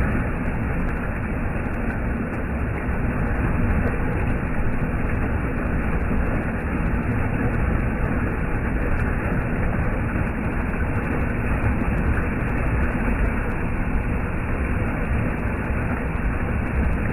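Mountain valley stream water rushing steadily, a dense, even noise without breaks.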